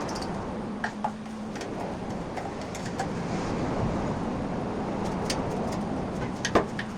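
Steady mechanical running noise with a few sharp metallic clicks over it.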